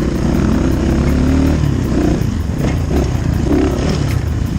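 Dirt bike engine running while ridden, its pitch rising and falling with the throttle.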